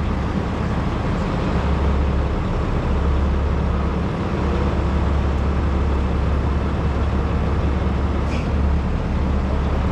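Heavy truck diesel engine running steadily, most likely the rotator wrecker's engine driving the hydraulics while the plane is lowered.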